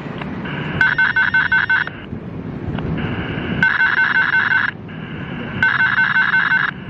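Railway level-crossing electronic warning bell ringing in one-second bursts of rapid strokes, about seven a second, repeating roughly every two seconds, the signal that a train is approaching and the crossing is closing.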